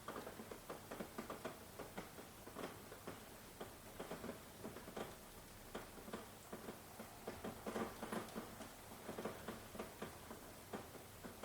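Rain falling, with close drops tapping irregularly several times a second over a soft hiss.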